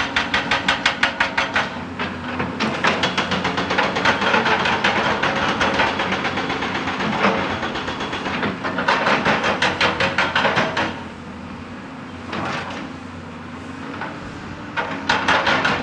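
Excavator-mounted hydraulic rock breaker hammering in rapid runs of several blows a second, over the excavator's steady engine. The hammering stops for a few seconds after the middle, leaving only the engine, and starts again near the end.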